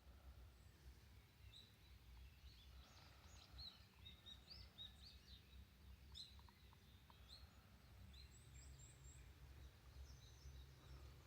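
Faint wild birdsong, many short chirps and whistles from several birds, over a low steady rumble.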